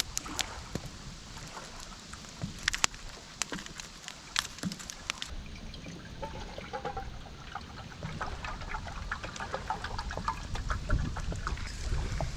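Water trickling and lapping, with scattered sharp clicks and knocks; the sound changes abruptly about five seconds in.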